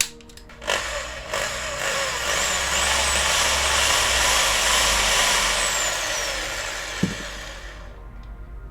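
Electric drill running, its bit cutting into the diecast metal of a toy car's base, as when the rivets are drilled out for disassembly. It starts about a second in, builds to a steady whining grind with a wavering high pitch, and tapers off near the end.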